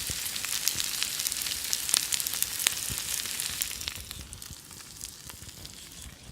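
Pierogies, corn and bacon frying in butter in a pan over a campfire. The pan is sizzling with many small pops and crackles, and the sizzle dies down after about four seconds.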